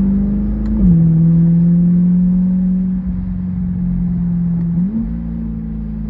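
2023 C8 Corvette Z51's 6.2-litre V8 through an AWE Track Exhaust, running steadily. The note drops with an upshift about a second in, climbs slowly, then jumps up with a quick downshift near five seconds in.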